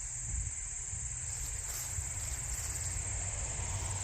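Outdoor insect chorus, likely crickets, a steady high-pitched trill that does not let up, over a low rumble.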